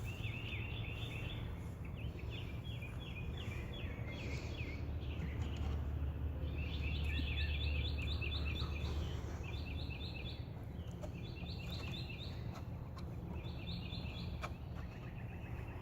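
Songbirds singing: repeated phrases of quick, evenly spaced chirping notes, with short gaps between phrases. A low steady rumble runs underneath and swells around the middle.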